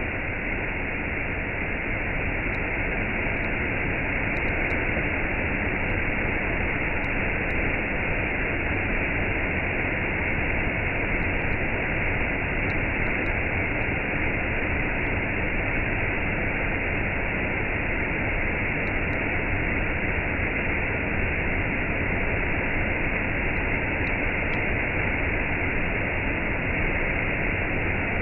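Waterfall with a cascade: water falling and rushing in a steady, unbroken roar.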